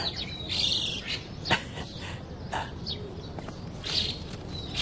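Small birds chirping in short, scattered calls over a steady low background.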